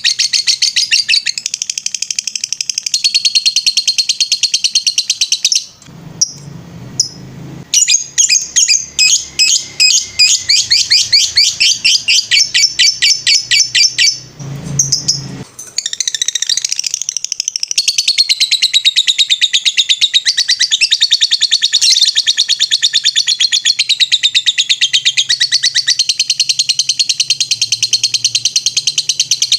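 Lovebird singing its long 'ngetrek' song: a fast, continuous string of high chattering notes. It breaks off briefly twice, about six and fourteen seconds in, then runs on unbroken.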